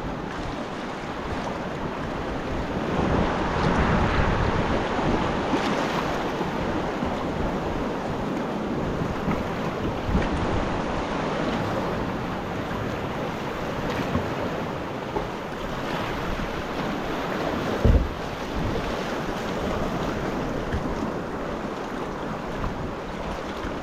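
Sea water washing and slapping around a kayak, with wind buffeting the microphone. The noise swells a few seconds in, and a single brief low thump stands out about three quarters of the way through.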